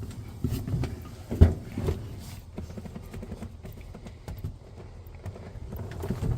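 Scattered knocks and thumps, the loudest about a second and a half in, as a person climbs into the cab of a Model T Ford truck and settles at the controls. The engine is not yet running.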